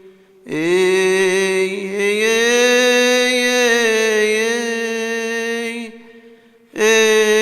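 A solo male cantor chants a Coptic Orthodox hymn in long melismatic phrases, holding and slowly bending each note. He breaks briefly to breathe about half a second in and again near the end, each time starting a new phrase.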